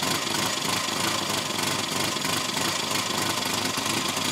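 1988 Austin Maestro engine idling on full choke from a cold start, with a rapid, steady pulsing from an exhaust leak at a joint underneath the engine: the exhaust is blowing quite badly.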